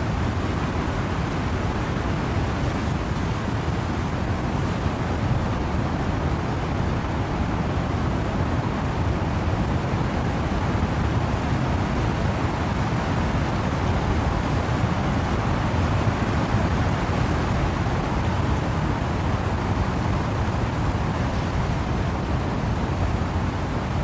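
Steady wind-and-rain ambience with wind rushing through trees: a continuous, even rush heaviest in the low end, without distinct drops or gusts.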